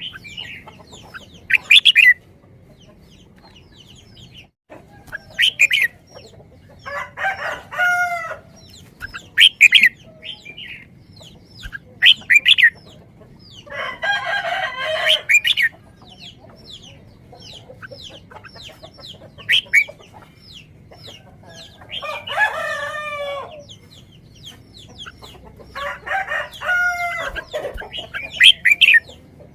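Chickens calling, with four longer crow-like calls among short sharp squawks, and small birds chirping throughout.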